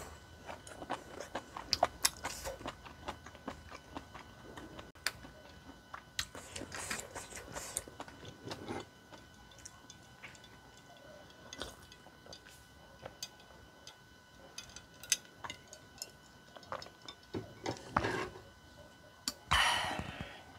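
Close-miked eating sounds: a woman chewing tteokbokki and fish cake, with many small mouth clicks and lip smacks and a few louder breathy bursts, two of them near the end.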